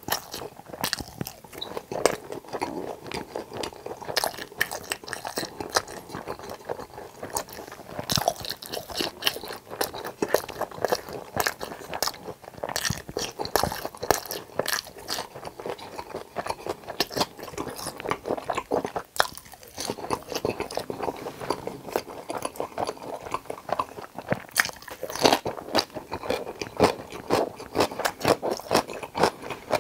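Close-miked crunching and chewing of crispy fried tangsuyuk pork topped with pizza cheese: dense, irregular bites and crunches, with a short lull about nineteen seconds in.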